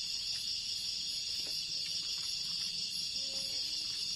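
Forest insects droning in a steady, high-pitched chorus.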